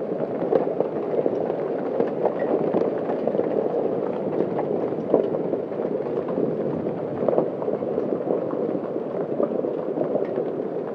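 Hailstones pelting down in a dense, steady clatter, with sharper single impacts scattered throughout.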